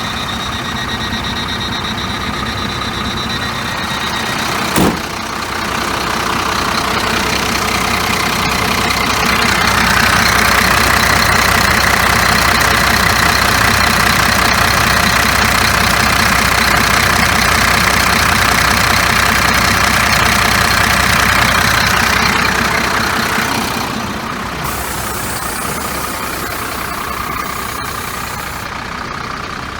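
2003 Volvo 6x4 tanker truck's diesel engine idling steadily. There is a sharp click about five seconds in. From about seven to twenty-three seconds a louder, hiss-like noise rides over the idle.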